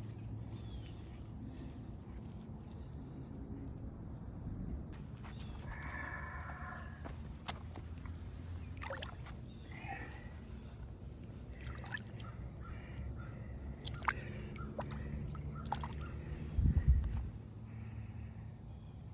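Insects, likely crickets, chirring steadily in the night, over a low rumble, with scattered small clicks and a short, loud thump near the end.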